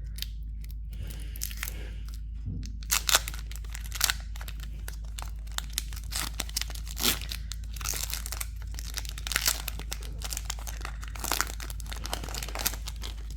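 A foil Pokémon booster pack being torn open and its wrapper crinkled, in many irregular sharp crackles and rips.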